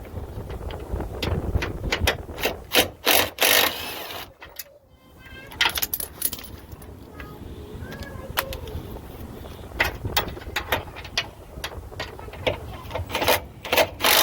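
Socket ratchet and hand tools working on the transmission mount bolts of a truck: irregular metallic clicks and clanks, loudest about three seconds in and again near the end, over a low rumble.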